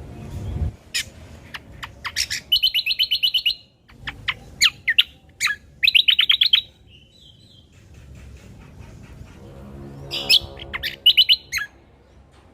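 Cucak kombo (Javan grey-throated white-eye) calling: sharp, downward-sweeping single notes mixed with three rapid, rattling high trills, about two, six and eleven seconds in.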